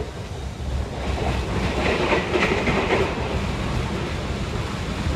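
Passenger train running on the rails, heard from inside the carriage: a steady low rumble with wheel noise that grows louder for a couple of seconds in the middle.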